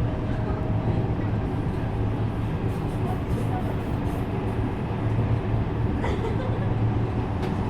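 Running noise inside a JR West 321 series electric multiple-unit train under way: a steady rumble with a low hum, and a couple of sharp ticks near the end.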